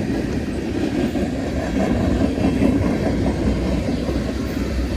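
Freight train cars rolling past on the rails with a steady noise of wheels on track.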